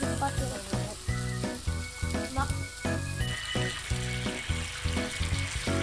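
Food sizzling and bubbling hard in a pan over a camp stove, under background music with a steady beat.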